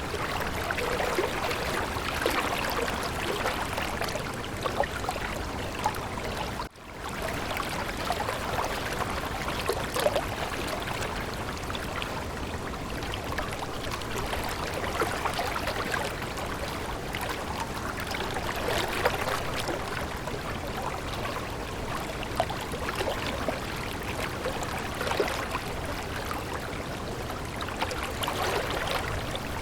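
Water of a stream running and splashing steadily over stones, with a very brief cut in the sound about a quarter of the way in.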